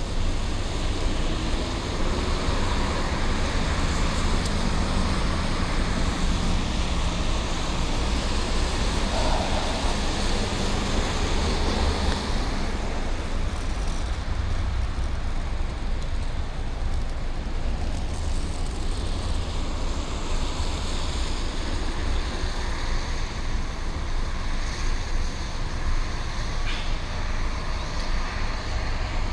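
Steady city traffic noise heard from a moving bicycle: the continuous rumble of cars, trucks and buses on the road, with one vehicle's engine tone audible in the first few seconds.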